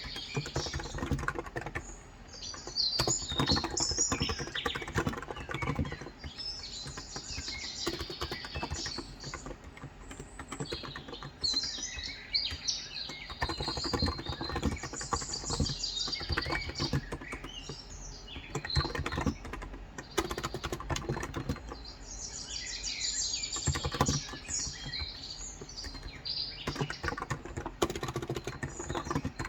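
Steady typing on a Cox Endeavor electro-capacitive (Topre-style) tenkeyless keyboard with 35 g switches: soft, dense keystrokes in runs with short pauses. Small birds chirp and twitter throughout.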